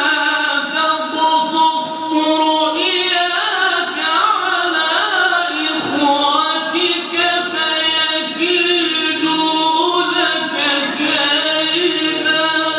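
Quran recitation in melodic tajweed style: one voice holding long, ornamented, wavering notes with short pauses for breath.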